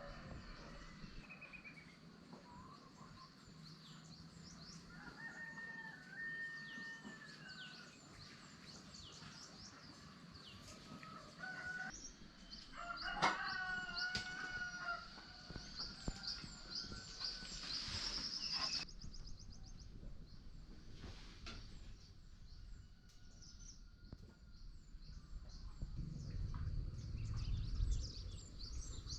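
Small birds chirping throughout, with a rooster crowing near the middle. A low rumble comes in near the end.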